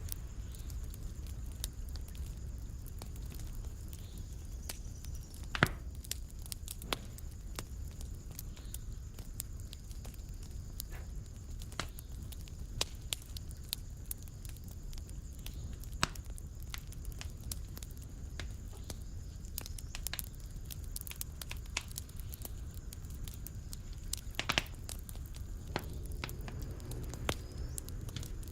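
Wood fire crackling in a fireplace: irregular sharp snaps and pops over a low steady rumble, with a louder pop about six seconds in and another about twenty-four seconds in.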